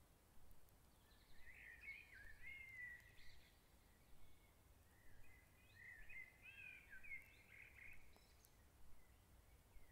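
Faint songbird twittering, in two spells of quick chirps and warbles, over a low steady rumble.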